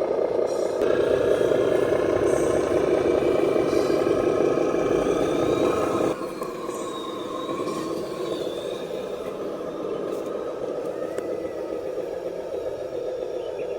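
Radio-controlled dump truck driving, its electric motor and gears whining with a pitch that rises and falls; the sound drops suddenly in level about six seconds in and carries on quieter.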